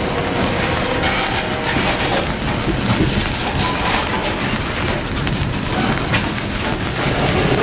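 Loaded coal gondola cars of a freight train rolling past: steel wheels rumbling on the rails, with scattered clicks as they cross rail joints.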